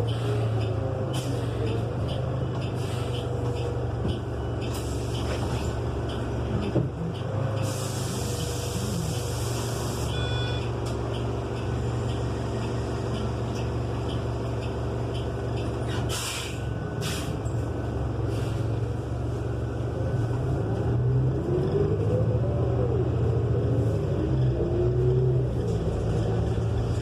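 Inside a New Flyer XN35 transit bus: its Cummins Westport L9N natural-gas engine runs loudly, with air hissing out of the brake system several times, one long hiss about eight seconds in and short ones a little past halfway. Toward the end the engine gets louder and a whine rises and falls in pitch as the bus pulls away.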